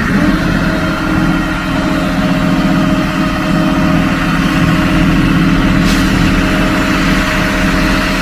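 Heavy vehicle engine, diesel-like, idling steadily at an even pitch.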